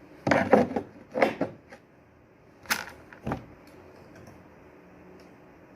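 Handling noise from working on a sliding shower door's hardware: a quick run of knocks and clatter in the first second and a half, then two single sharp knocks a little before and after three seconds.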